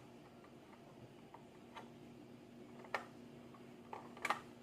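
Scattered light clicks and taps of plastic model-kit parts being handled and pressed together, a few single clicks spread through, with two sharper ones close together near the end, over a faint steady hum.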